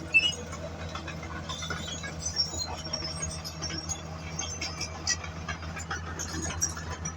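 Bulldozer's diesel engine running with a steady low drone, with scattered metallic clinks and short high squeaks over it; a sharp click about a fifth of a second in is the loudest event.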